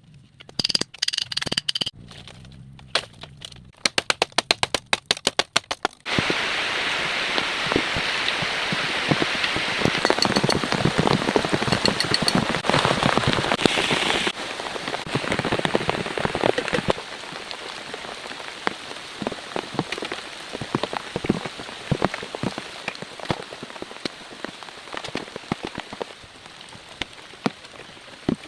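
Heavy rain falling, with many separate drops striking close by; it is heaviest through the middle and eases to a lighter fall near the end. The first few seconds are a dense run of sharp crackling clicks before the steady rain cuts in abruptly.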